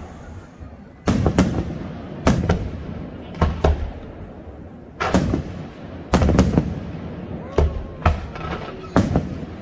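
Aerial firework shells bursting in a display. After a quieter first second there are sharp bangs about once a second, often two in quick succession, over a low rumble.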